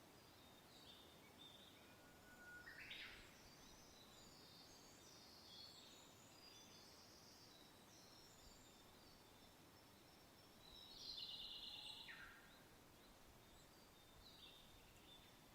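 Quiet songbirds chirping and calling over a soft background of wind noise, with two louder phrases about 3 seconds in and about 11 seconds in.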